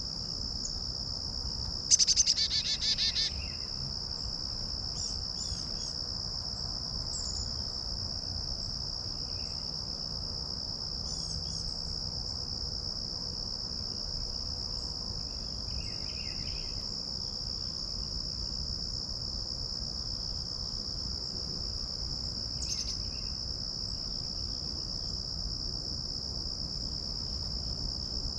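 A steady, high-pitched insect chorus, with a loud, rapid series of bird notes about two seconds in and a few faint bird chirps scattered through.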